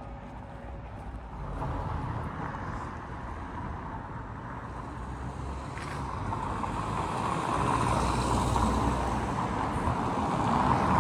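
A road vehicle approaching, its engine and tyre noise growing steadily louder toward the end.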